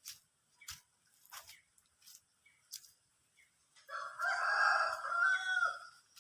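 A rooster crowing once: a single call of about two seconds starting about four seconds in, bending down at the end. A few faint clicks come before it.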